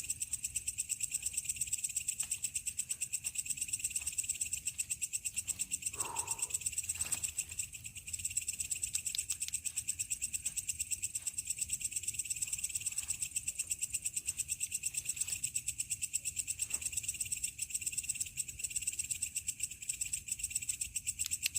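Night insects chirping in a steady, high, rapidly pulsing chorus, with one brief falling call about six seconds in.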